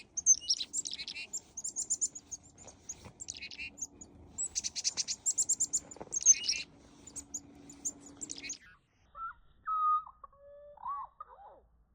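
Chickadees calling at close range: a busy run of high chips and quick twittering note series. From about nine seconds in, the calls give way to a few quieter, lower sliding notes.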